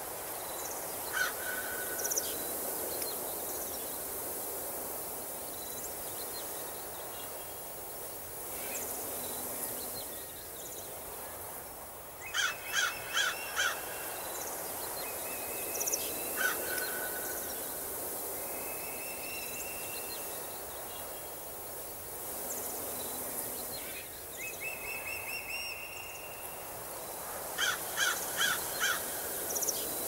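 Forest ambience: wild birds calling over a steady background hiss. Twice, about 12 seconds in and again near the end, a run of four or five loud calls stands out, with softer short whistles and brief trills from other birds in between.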